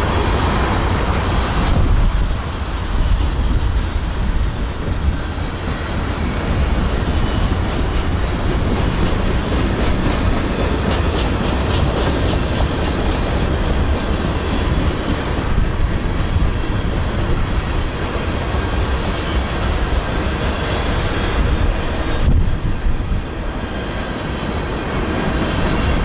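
Freight train cars (tank cars, boxcars and covered hoppers) rolling past: a steady low rumble with the wheels clacking over rail joints.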